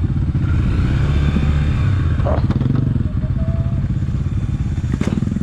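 Honda XRE300's single-cylinder four-stroke engine running steadily while the motorcycle rides along, with a couple of short knocks of clatter about two seconds in and near the end.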